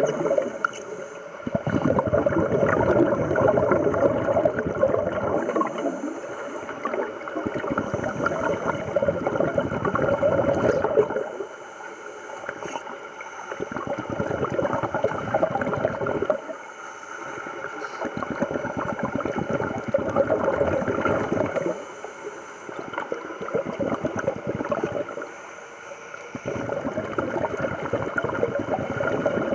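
Scuba diver breathing through a regulator underwater: about six long bubbling exhalations, each followed by a short, quieter hissing inhalation, in a steady rhythm of one breath every four to five seconds.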